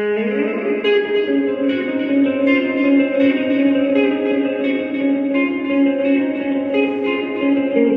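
Fender Player Telecaster played clean through a Fender Champion 20 amp with heavy reverb and delay. It opens with a slide up the neck, then a run of single notes along a scale, each note ringing on into the next.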